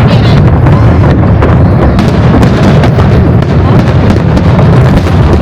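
Aerial fireworks going off in a dense, continuous barrage: a steady low rumble of booms with many quick sharp bangs and crackles layered over it.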